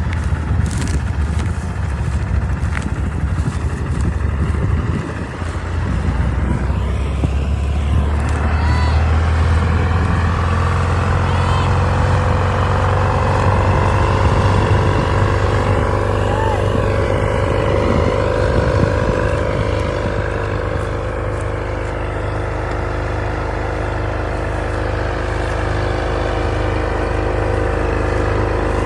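Heavy diesel farm machinery running steadily under load: a deep engine hum, joined about eight seconds in by a steady whine from the working machine.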